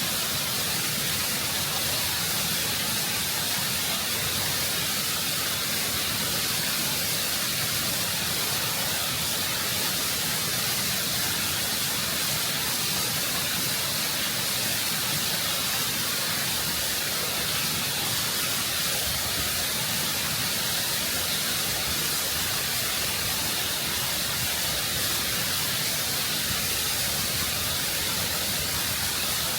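Waterfall water cascading over rock, a constant, full rushing sound that stays steady throughout.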